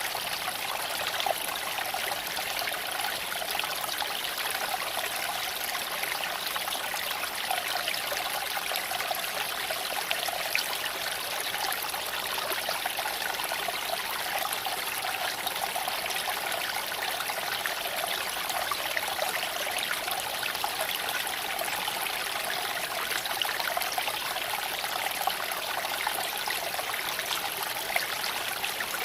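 Creek water flowing and trickling over stones, a steady, even rushing.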